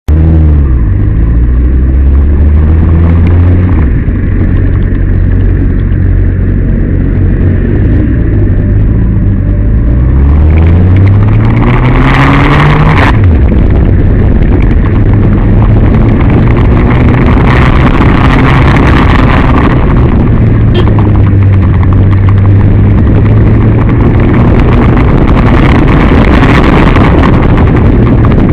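Motor vehicle engine running with road noise. The engine note rises steadily for several seconds and then drops abruptly about thirteen seconds in.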